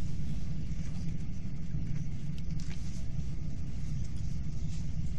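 Hyundai Rotem electric train running at speed, heard inside the carriage: a steady low rumble of wheels on the rails and running gear.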